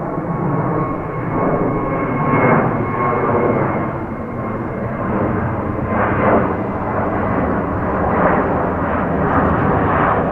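Jet airliner engines running loud: a dense, swelling rumble with a thin steady whine over it.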